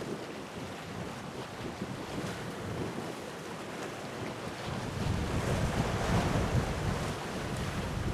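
Wind buffeting the microphone over the wash of sea waves, gusting stronger about five seconds in.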